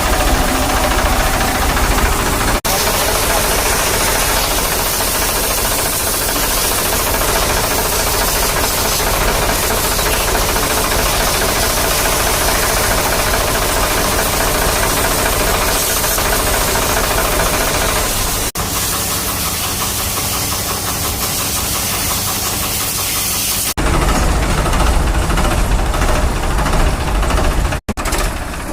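An engine running steadily under a loud, even hiss of high-pressure water spray washing a tractor radiator. The sound changes abruptly a few times.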